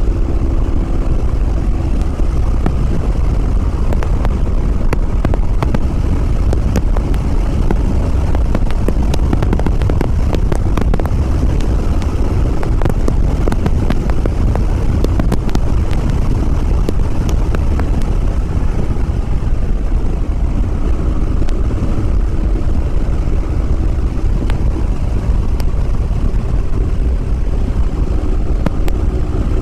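Yamaha WR250R's 250 cc single-cylinder engine running at a steady cruising speed, under heavy wind and road rumble on the microphone.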